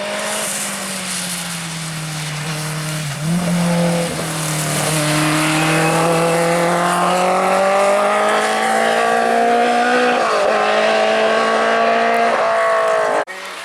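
Race car engine running hard, its note rising slowly between two quick gear changes, about three seconds in and about ten seconds in. The sound cuts off suddenly near the end.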